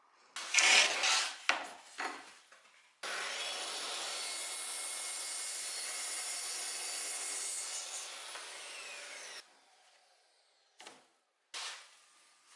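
Wood being worked with an abrasive or cutting tool. First come a few rough rubbing strokes, then about six seconds of steady abrasive noise that starts and stops abruptly, then two short strokes near the end.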